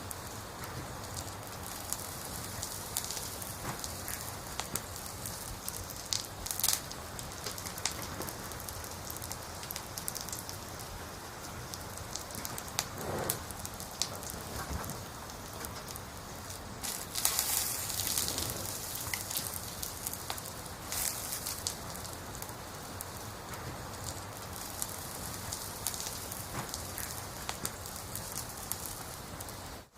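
Campfire of burning firewood crackling: a steady hiss with scattered sharp pops, and a louder flurry of crackles about seventeen seconds in.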